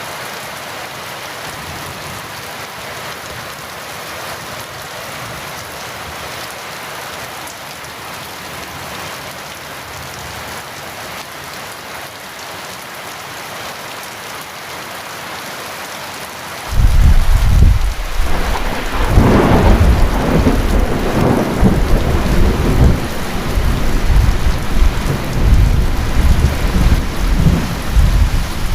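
Steady heavy rainfall, then about two-thirds of the way through a sudden loud clap of thunder that rolls on as a long, rumbling peal over the rain.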